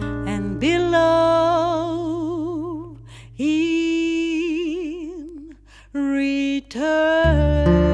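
A woman singing slow, long-held notes with a wide vibrato over a low held note, in three phrases with short breaks between them. Acoustic guitar comes back in near the end.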